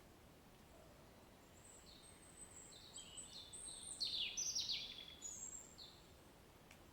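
A songbird singing a run of high chirps and quick falling notes, starting about two seconds in and stopping about a second before the end. Under it, a faint steady hiss of rain.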